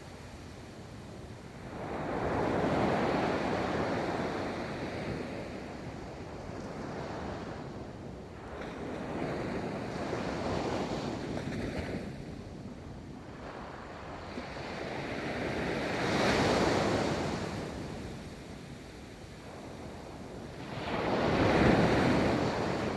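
Ocean waves breaking and washing up a beach, the surf swelling and fading in slow surges every five or six seconds, with the loudest wash near the end.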